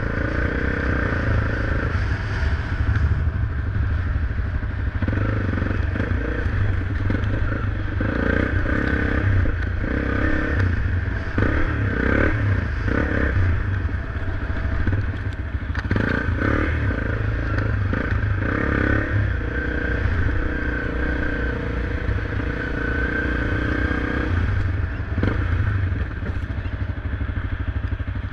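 Motorcycle engine running steadily while riding, with irregular knocks and rattles mixed in.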